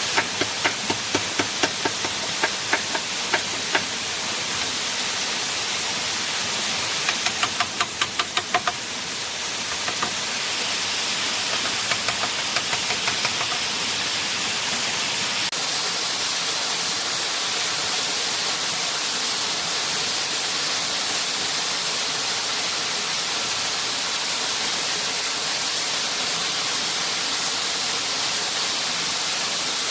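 Steady rush of a waterfall. Three quick runs of sharp knocks come in the first half, the middle run the fastest, and after them only the water is left.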